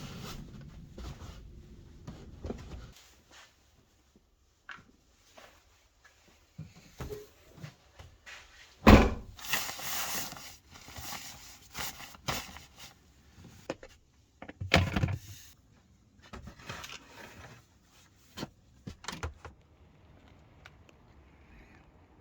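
Irregular knocks, rustles and clatter of things being handled, with two loud thunks, one about 9 seconds in and one about 15 seconds in, and a low rumble during the first 3 seconds.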